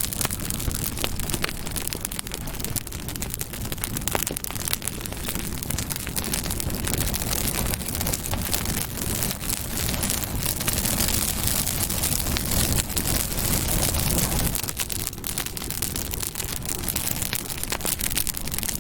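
Campfire burning, with dense, steady crackling and popping over a low rumble of flames.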